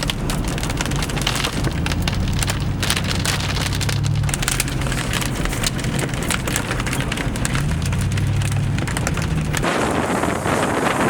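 Heavy rain pelting a surface in a storm, a dense crackle of drops over a low rumble. About ten seconds in it switches to wind buffeting the microphone.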